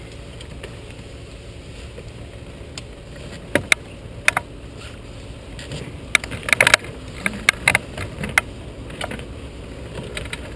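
Scattered sharp clicks and light knocks of gear being handled and fitted, with a cluster of rapid clicks about six and a half seconds in, over a steady low background noise.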